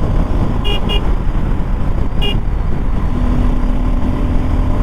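Steady wind and road rumble of a motorcycle riding on a highway, with three short high-pitched horn toots in the first half. A steady low hum sets in about three seconds in.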